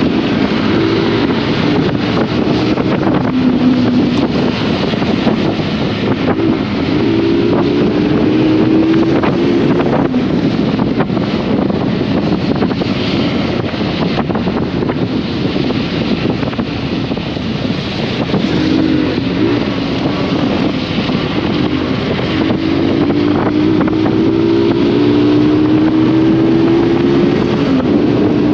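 Honda CBR150R single-cylinder engine running under way on the road, its note rising slowly and then dropping several times as the speed changes, under heavy wind rush on the microphone.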